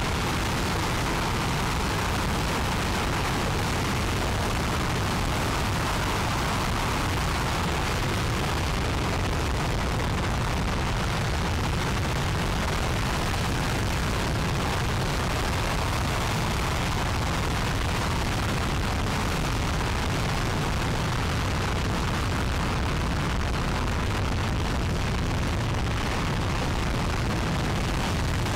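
Aerojet Rocketdyne RS-25 liquid-hydrogen/liquid-oxygen rocket engine firing on a test stand, a steady unbroken roar of exhaust noise with no change in level.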